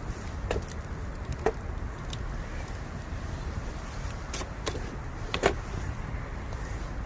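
Bamboo burning in a campfire: a steady low rumble of fire with scattered sharp crackles and pops, about half a dozen, the loudest about five and a half seconds in.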